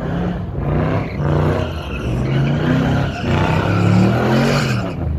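Car engine being revved hard in the lot, its pitch rising and falling over several revs, the longest climbing from about three seconds in and dropping off near the end.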